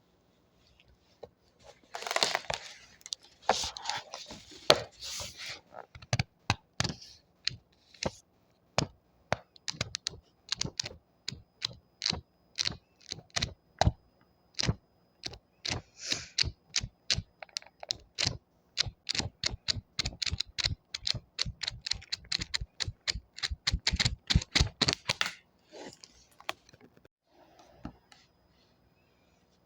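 Paper pages of a book being handled: a crisp rustle, then a long run of quick sharp page flicks, about two to three a second, that stops about 25 seconds in, followed by a few soft rustles.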